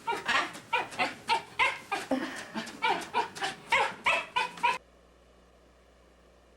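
A dog giving a rapid string of short, high-pitched yips and whimpers, about three a second, cut off suddenly near the end.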